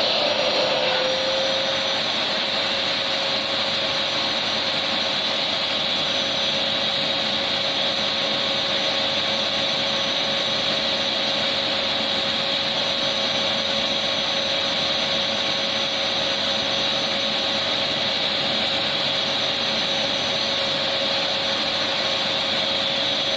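Vacuum cleaner running steadily: an even, loud rushing hiss with a constant motor whine.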